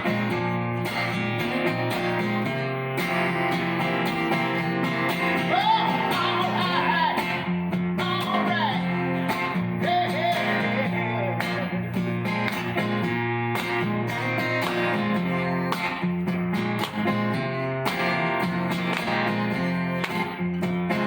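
Live band playing an instrumental passage of a song, led by guitar, with some notes bending in pitch.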